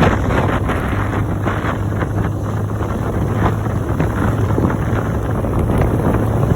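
Wind buffeting the microphone during a motorcycle ride, over a steady low engine hum.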